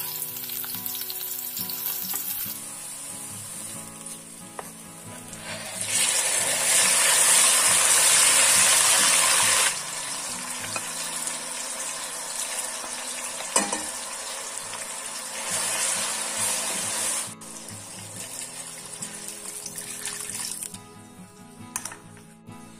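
Onions, then tomatoes and whole spices, sizzling in hot oil in a stainless steel pot while a wooden spatula stirs them. The sizzle swells much louder for a few seconds near the middle, and there is a single sharp tap a little past halfway.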